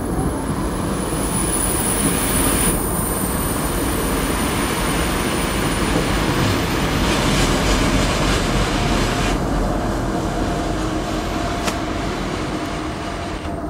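Flåm Railway passenger train hauled by an NSB El 18 electric locomotive running past close by, a steady rolling noise of wheels on rails. A faint steady whine joins in about two-thirds of the way through.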